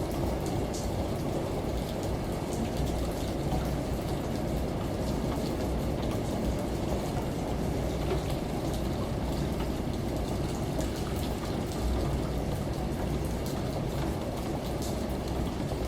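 Steady falling water with scattered drip ticks over a low, even hum.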